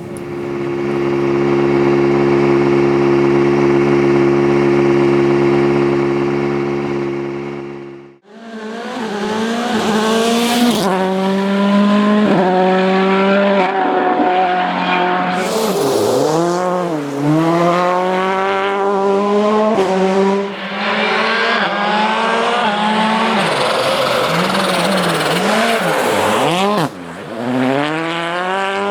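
Volkswagen Polo R WRC rally car's turbocharged 1.6-litre four-cylinder engine at full attack on a stage. For the first eight seconds it holds one steady note that swells, then cuts off suddenly. After that its revs climb hard through the gears with sharp drops at each shift, and the revs fall and rise again as it brakes and goes through corners.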